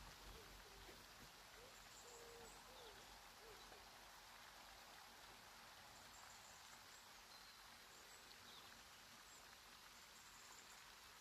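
Near silence: a faint even hiss, with soft low cooing or hooting bird calls in the first three seconds or so and a few faint, high bird chirps far off.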